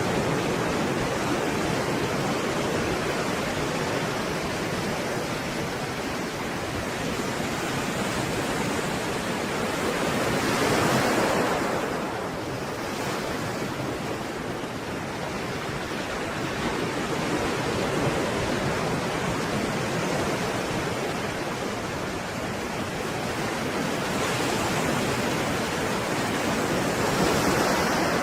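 Stormy sea waves: a continuous rushing surf that swells into a louder breaking wave about eleven seconds in and again near the end.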